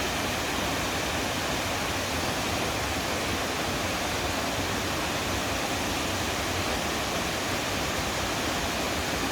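The Lainbach waterfall's water rushing, a steady, even noise with no change.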